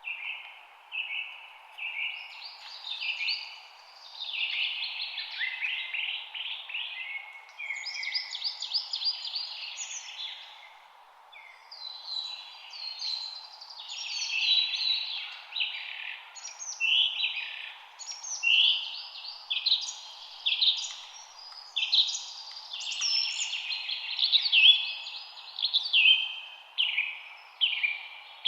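Several songbirds chirping and singing at once in a busy chorus of short, overlapping calls and trills, over a faint steady background hiss.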